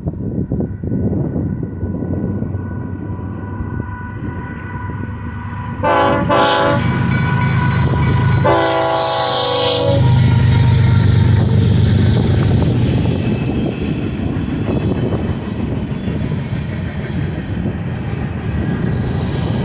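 Diesel freight locomotive passing on the mainline, with the engines rumbling steadily. Its multi-chime air horn sounds a short blast about six seconds in, then a longer blast about two seconds later. A heavier low rumble follows as the locomotives go by.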